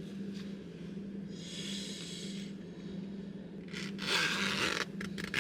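A person breathing heavily in rhythm, three noisy breaths or snorts about two seconds apart, the middle one loudest and followed by a few soft clicks, over a steady low hum.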